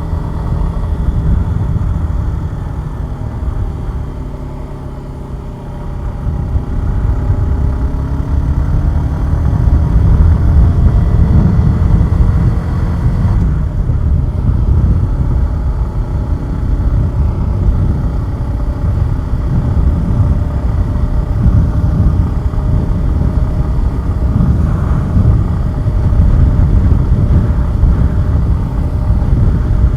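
Suzuki Gixxer 150SF's single-cylinder engine running under way: it eases off over the first few seconds, then pulls up through the revs and holds, with wind rushing over the microphone.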